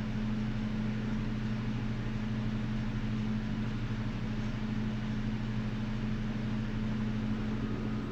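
Studio heater running: a steady low electrical hum over an even rushing noise, the hum dropping away near the end.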